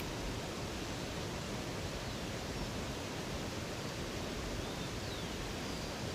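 Steady rush of a waterfall or river, with a few faint, high bird chirps in the middle.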